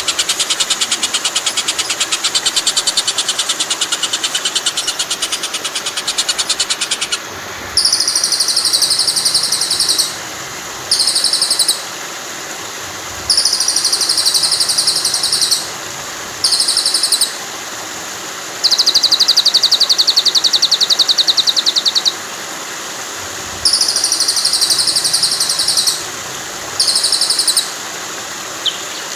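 A songbird's very fast buzzing trill, given in repeated phrases. The first runs about seven seconds, then come shorter ones of one to three seconds with brief pauses between them. Under it runs a steady rush of flowing water.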